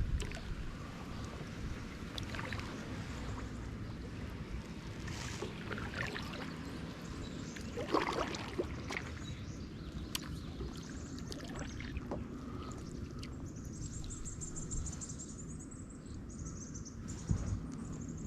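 Kayak paddle dipping and splashing in lake water, a stroke every second or two, with a low rumble throughout. A high, rapid trill sounds for a few seconds near the end.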